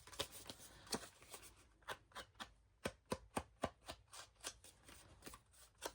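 Ink pad dabbed along the edges of a piece of cardstock: a run of faint, light taps at an uneven pace, a few each second.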